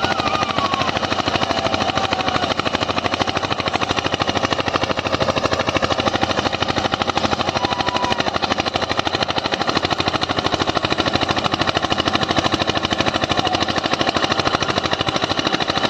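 Eicher 241 tractor's single-cylinder air-cooled diesel engine chugging steadily at full power, working hard under the load of a nine-tine cultivator in the ground. The beat is fast and even throughout.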